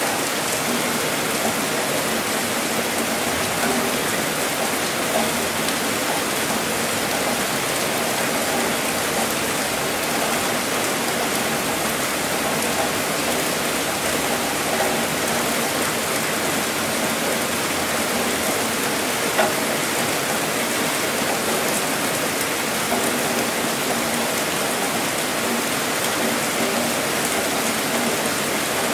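Heavy rain falling steadily, an even hiss with a few slightly louder drops standing out.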